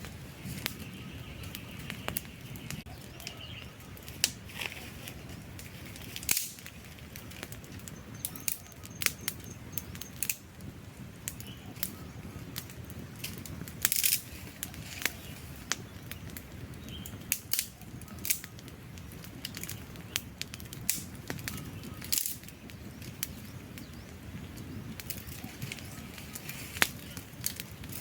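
Burning wood fire crackling, with irregular sharp pops and snaps, some much louder than others, over a low steady rumble of flames.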